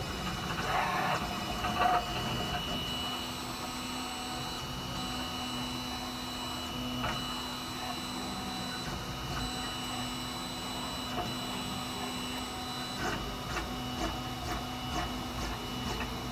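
PLA filament 3D printer running a print, its stepper motors giving a steady whine. There are a couple of knocks about a second in, and a run of short clicks and stops in the motor sound near the end.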